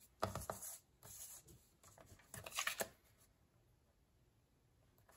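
Paper being handled: a quick run of rustles and light taps that stops about three seconds in.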